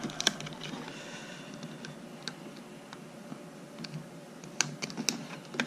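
A handful of light, irregular clicks and taps as a plastic instrument cluster and its thin gauge face overlay are handled and lined up.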